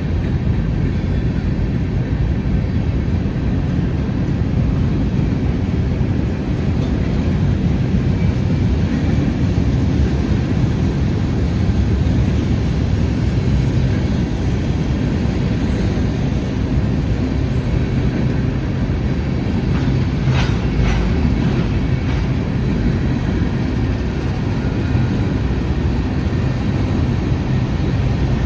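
Manifest freight train's cars rolling past at steady speed: a continuous low rumble of wheels on rail, with a short run of sharper clicks about twenty seconds in.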